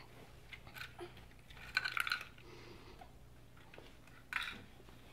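Faint plastic clicks and clatter from a toy excavator being handled and worked, with a louder burst of rattling about two seconds in and another short one near the end.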